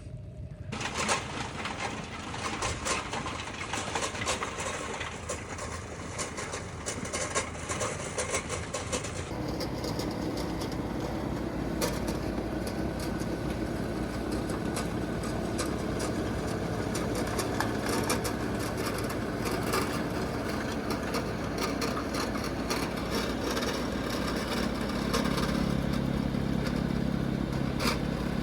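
Compact tractor's diesel engine running with a rear-mounted snowblower, continuous throughout; the sound changes about nine seconds in, and the engine note becomes steadier and deeper near the end.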